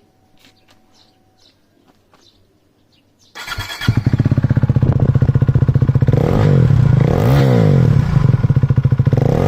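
KTM RC 390 single-cylinder engine, exhaust with the dB killer removed (free-flow), starting about a third of the way in after a few quiet seconds. It then idles loudly with several quick throttle blips that rise and fall in pitch.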